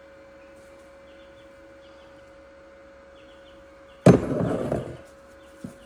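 A sudden loud clatter about four seconds in, lasting about a second before fading, from the cut-open torque converter halves being handled; before it, only a faint steady hum.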